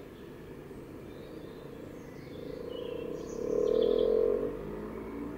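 Garden birds chirping and singing over a low, steady hum that swells to its loudest about three and a half to four and a half seconds in.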